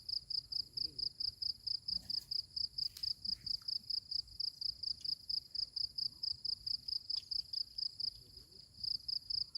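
An insect, most likely a cricket, chirping steadily in a fast even rhythm of about four to five high-pitched pulses a second. The chirping breaks off briefly near the end, then resumes.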